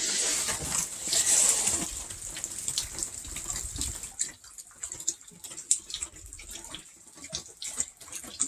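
Rain falling and dripping, a steady hiss that is loudest for the first two seconds and then fainter, with scattered drips.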